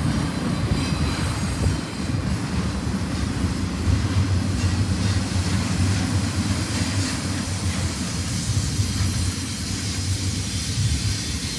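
Double-stack container train's loaded well cars rolling past: a steady low rumble of steel wheels on the rails.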